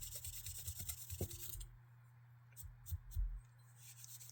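Faint clicks, taps and low bumps from handling small knife parts over a steady low hum. The sound drops to near silence for about a second midway, then a few more bumps.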